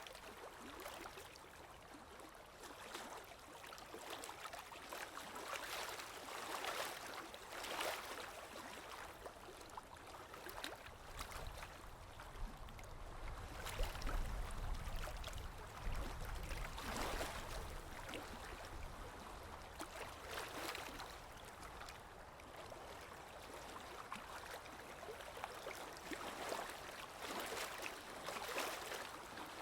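Running water flowing steadily, like a stream, its rushing swelling and easing every few seconds, with a low rumble about halfway through.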